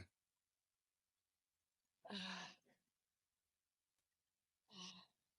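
Near silence, broken twice by a brief, faint sound of a person's voice like a sigh, about two seconds in and again near the end.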